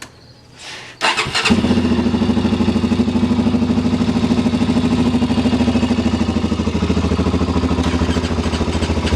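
A small off-road vehicle's engine starting cold about a second in, then idling steadily with a fast even beat as it warms up.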